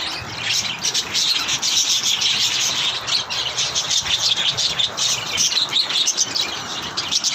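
A flock of small pet birds chirping and chattering all at once, a dense, unbroken twittering.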